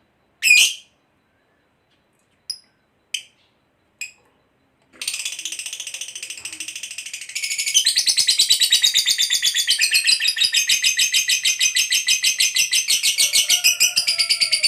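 Lovebird giving a few short sharp chirps, then about five seconds in breaking into a long, unbroken, rapid chattering trill, the 'ngekek' prized in fighter lovebirds; it grows louder about halfway through.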